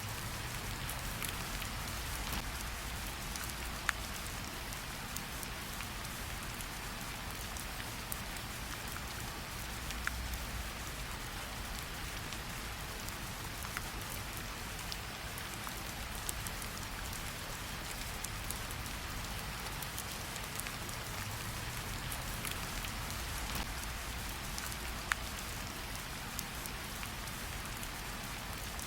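Steady gentle rain falling on tree leaves, an even patter with scattered sharper drops ticking now and then.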